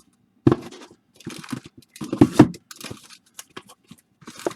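Plastic-wrapped trading card packs and small cardboard boxes being handled and set down: irregular crinkling of wrappers with short knocks, busiest about two seconds in.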